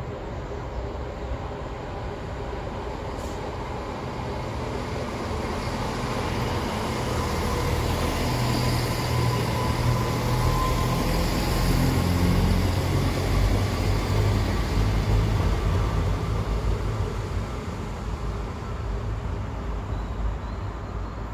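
ScotRail Class 170 Turbostar diesel multiple unit passing at close range on the near track. Its underfloor diesel engines rumble and its wheels run on the rails, the noise building to loudest over the middle seconds and easing toward the end.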